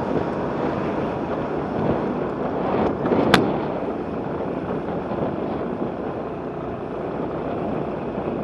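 Steady wind and road noise from riding a scooter, rushing over the microphone, with one sharp click about three seconds in.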